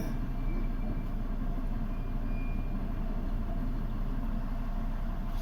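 Hino crane truck's diesel engine running steadily with a low, even drone.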